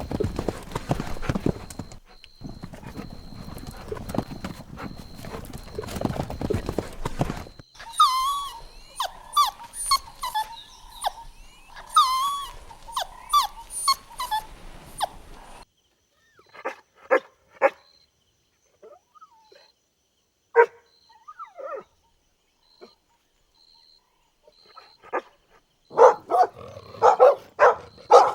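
Puppies making high whining, yelping cries that bend up and down, then a few short, scattered yips, and a quick run of barks in the last couple of seconds. The first seven seconds or so are a dense rustling noise with no clear calls.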